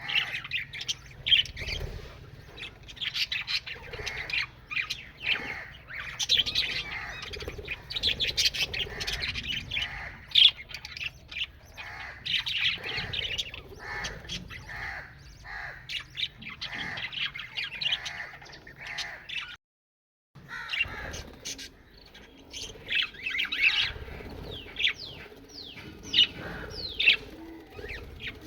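A group of parrots chirping and squawking constantly, many short overlapping calls. The calls break off for an instant of silence about two-thirds of the way through, then carry on.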